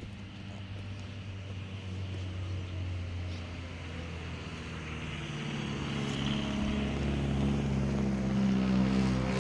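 A motor vehicle's engine running steadily and growing louder as it comes closer, its low hum shifting in pitch about halfway through.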